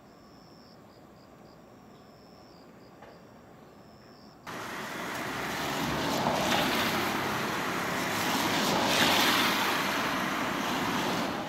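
Faint insect chirping, then from about four and a half seconds in, the loud rushing tyre and engine noise of a Hino Selega express coach driving past, swelling and easing off again.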